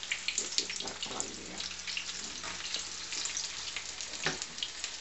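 Saltfish fritters shallow-frying in hot oil in a frying pan: a steady sizzle with many small crackles and spits, and one sharper click about four seconds in.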